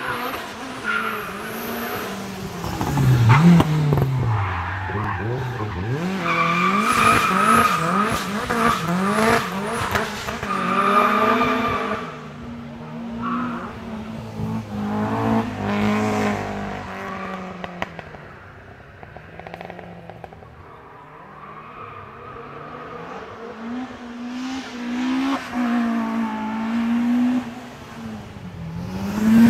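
Peugeot cars driven hard on a hillclimb course, their engines revving up and dropping back through the gear changes as each car passes. The engine sound swells and fades several times, quietest about two-thirds of the way through.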